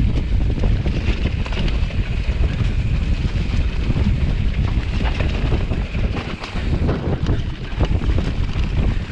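Wind buffeting the microphone: a loud, gusty low rumble that dips briefly about six seconds in.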